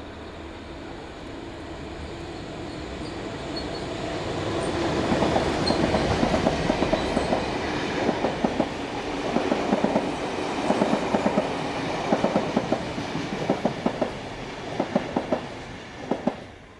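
Passenger train with a diesel locomotive passing close by. A steady rumble grows louder over the first few seconds, then the carriage wheels clack over the rail joints in quick pairs of beats. The sound fades away right at the end.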